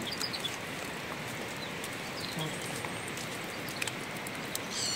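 Steady rain falling, an even hiss, with a few faint bird chirps and a short bird call near the end.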